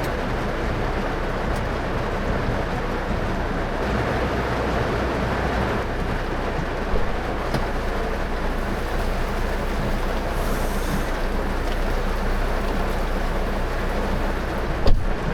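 Steady road and tyre noise of a car driving on wet roads in heavy rain, heard as an even rushing hiss over a low hum, with a small knock about seven seconds in and a sharper one near the end.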